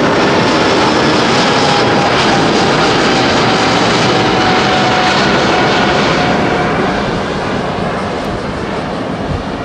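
Airbus A350-900's Rolls-Royce Trent XWB turbofans at takeoff thrust: loud jet noise with a faint whine gliding slowly down in pitch. It starts fading about seven seconds in as the airliner climbs away.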